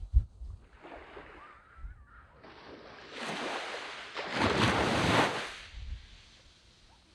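Sea waves on a sandy beach: one wave builds to a loud breaking wash about four to five seconds in, then fades back. A short low thump of wind on the microphone comes right at the start.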